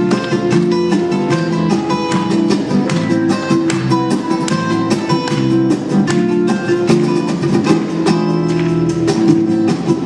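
Instrumental music led by acoustic guitar, quick plucked and strummed chords in a flamenco style at a steady pace.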